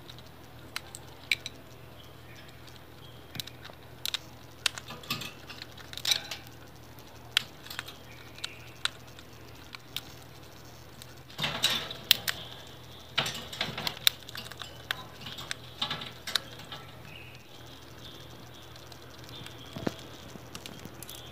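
Pet bird eating: scattered sharp clicks and taps of its beak at its food, coming thicker and faster about halfway through.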